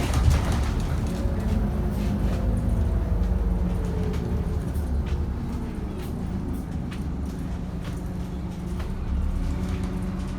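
Scania N230UD double-decker bus running under way, heard from inside: a steady low engine and driveline rumble, with a whine that falls in pitch over the first five seconds or so and a few light rattles.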